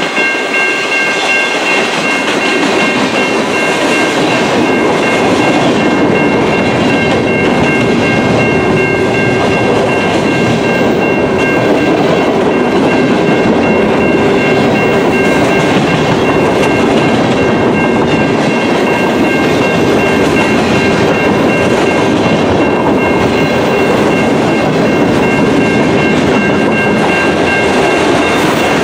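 A train rolling past close by: the steady rumble and rattle of railcars with the clickety-clack of wheels over rail joints. Three steady high-pitched tones ring over it throughout.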